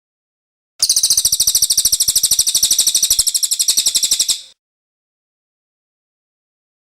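A cililin songbird singing one long, very fast, high-pitched trill of evenly repeated notes, starting about a second in and stopping after about three and a half seconds.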